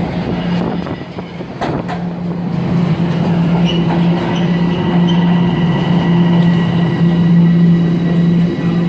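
Toronto subway train running, heard from inside the car: a steady motor hum over track noise, growing louder over the first few seconds, with a few sharp clicks from the wheels on the rails about two seconds in and a faint high whine from the wheels.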